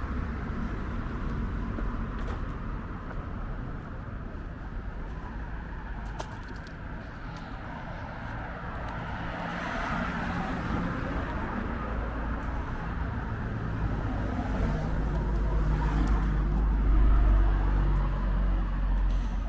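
Road traffic: a steady low rumble of passing cars, swelling as a vehicle passes close near the end.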